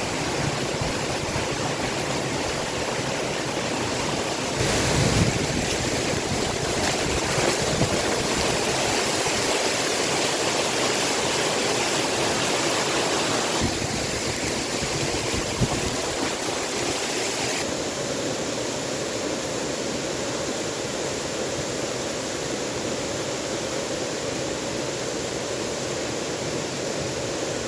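Waterfall water rushing steadily, its tone turning brighter a few seconds in and duller again past the middle.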